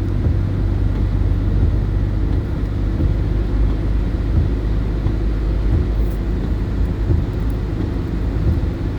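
Steady low rumble of a motor vehicle on the move, engine and road noise running continuously.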